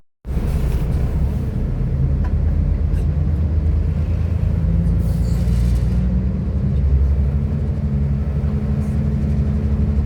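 Inside the carriage of a Class 172 Turbostar diesel multiple unit on the move: the steady low rumble of its underfloor diesel engine and running gear, with the engine note shifting slightly partway through. The sound cuts out for a split second at the very start.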